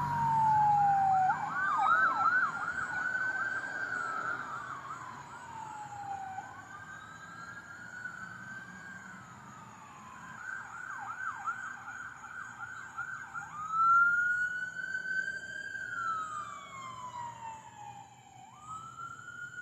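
Emergency vehicle electronic sirens switching between a slow rising-and-falling wail and a fast yelp, fading away near the end as the vehicles pass and move off.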